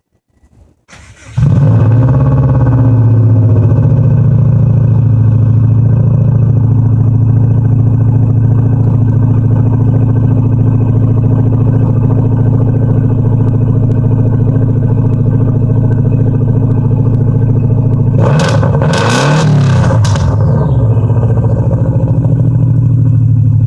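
Subaru WRX turbocharged flat-four engine started through its exhaust: it catches about a second in with a brief flare, then settles into a steady idle. About eighteen seconds in there is one quick rev that rises and falls before it drops back to idle.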